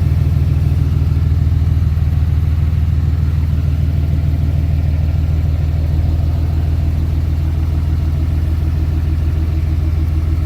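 A 6.7-litre Cummins inline-six turbo-diesel idling steadily with a low, even engine note that does not change.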